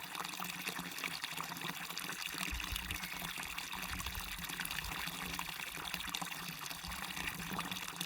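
Small waterfall running steadily, water splashing and rushing with a bright hiss.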